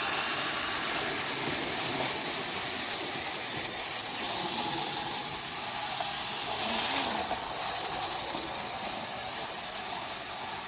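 Battery-powered Tomy toy train running: a steady, hissing whir from its small motor and gears.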